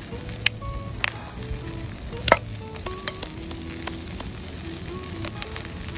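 Block bacon sizzling as it fries in a pan, a steady hiss broken by sharp pops of spitting fat, the loudest about two seconds in.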